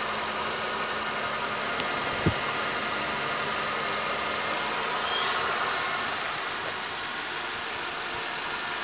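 Nissan Pulsar's 1.8-litre petrol four-cylinder engine idling steadily. A single sharp click about two seconds in.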